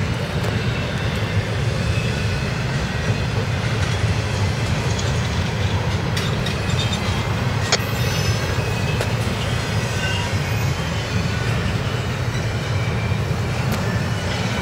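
Intermodal freight train's container cars rolling past, a steady rumble of steel wheels on rail with a few sharp clicks.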